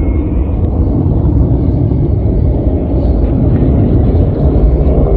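Deep, steady rumble of jet aircraft engines.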